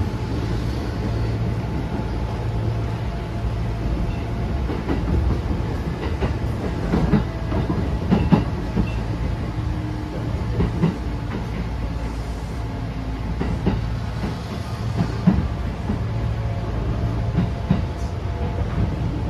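Kintetsu 9000-series electric train running, heard inside the passenger car: a steady low rumble of wheels and motors, with groups of rail-joint knocks mostly in the middle.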